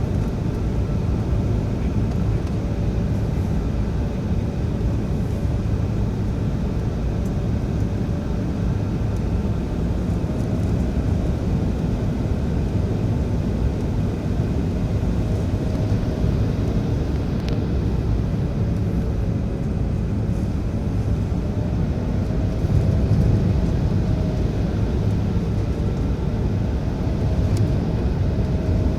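Steady cabin noise inside an Embraer 175 jet in flight: a low rumble of airflow and the twin General Electric CF34 turbofan engines, with faint wavering engine tones. It grows a little louder about three quarters of the way through.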